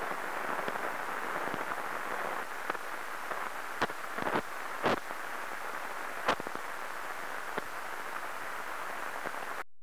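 Heterodyned output of a UL101 ultrasound detector with its probe pressed on a tank's traverse drive housing while the turret drive gear is turned by hand. It is a steady hiss with a few sharp clicks and pops in the middle stretch, and it cuts off just before the end.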